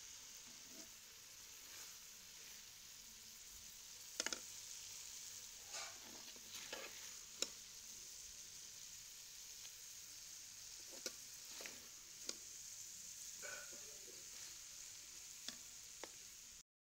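Onion and green chilli masala frying in a metal pot with a faint, steady sizzle, while a metal spatula stirs it with scattered scrapes and clicks against the pot.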